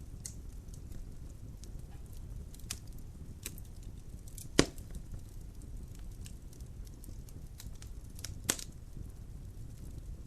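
Logs burning in a fireplace: a steady low rumble of the fire with scattered small crackles, and two loud sharp pops, one about halfway through and one near the end.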